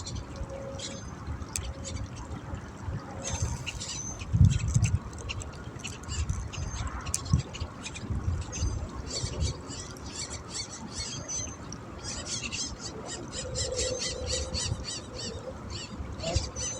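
Birds calling: many short, high chirps, turning into quick rapid runs of calls near the end, over a low outdoor rumble with one louder thump about four and a half seconds in.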